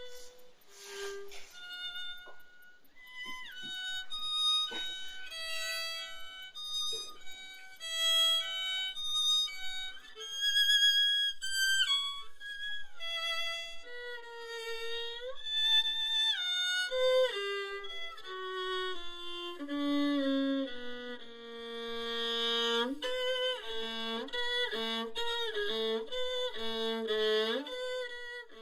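Music: a violin playing a melody of held notes that step up and down, turning to short repeated notes near the end.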